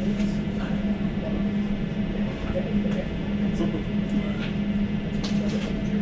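Interior running noise of an Elizabeth line Class 345 train under way: a steady low hum over the rumble of the wheels on the track, with faint passenger chatter.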